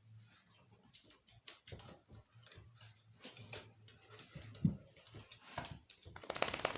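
An exotic shorthair kitten and a griffon dog playing together: quick, irregular taps and scuffles of paws and claws, with a sharp thump about four and a half seconds in and a louder scuffle near the end.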